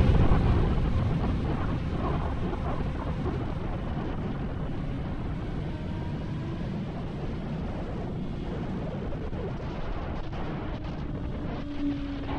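Wind rushing over the microphone with the road and engine noise of a motorcycle at speed, loudest as it starts and easing slightly over the first few seconds.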